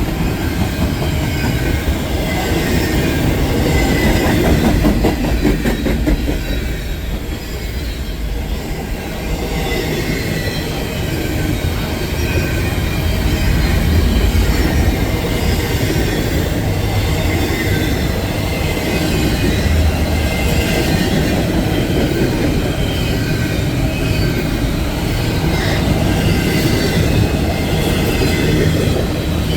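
Train cars rolling past on the rails: a continuous heavy rumble with wheel-on-rail clatter that keeps up without a break.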